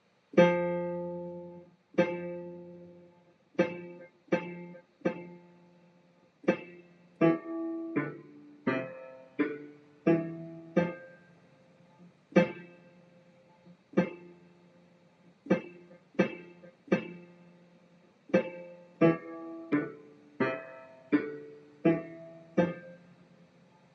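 Piano playing a simple single-note melody in the bass register, starting on F, one struck note at a time with each note dying away. The tune is two identical phrases, the second a repeat of the first.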